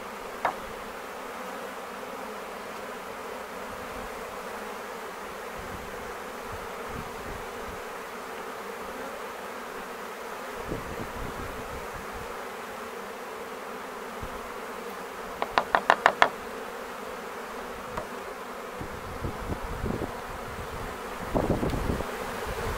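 Honey bee swarm buzzing in a steady hum. About two-thirds of the way through there is a quick run of about six sharp taps, and near the end a few low thumps.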